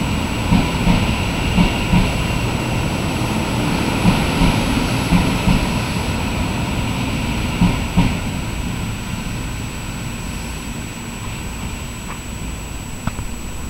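A JR West 100 series Shinkansen train pulling out past the platform, its running gear making a steady rumble with repeated knocks. The sound fades gradually after about eight seconds as the last car draws away.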